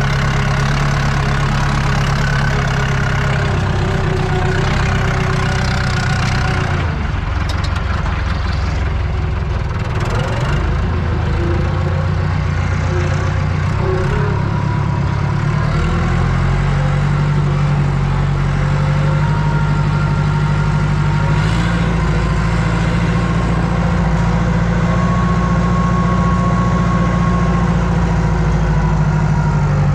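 Tractor diesel engine running under load, heard from inside the cab while pulling a cultivator. Its pitch drops about seven seconds in and comes back up about nine seconds later, then holds steady.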